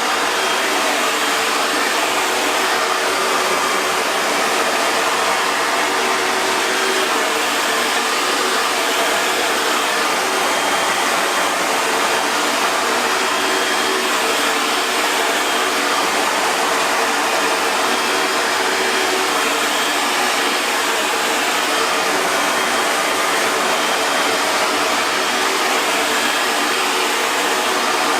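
Hair dryer running continuously at a steady speed: an even, unchanging rush of air with a faint motor hum underneath.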